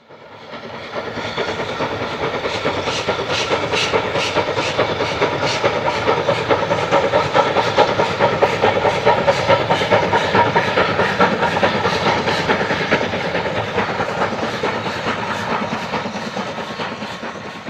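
Train running on rails, a steady rush with a regular clickety-clack of about three clicks a second; it swells up at the start and fades away near the end.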